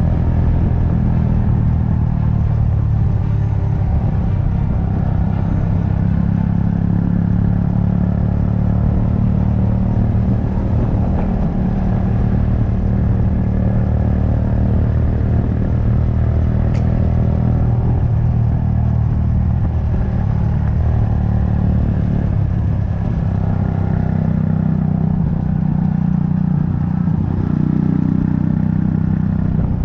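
Yamaha FZ16's single-cylinder four-stroke engine running steadily at an easy cruise on light throttle, heard from the moving motorcycle.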